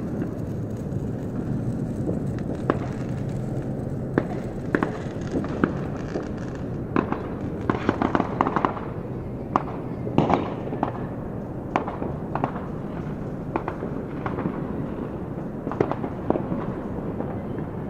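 Fireworks going off: sharp bangs and cracks at irregular intervals, bunched thickest about halfway through, over a steady low rumble.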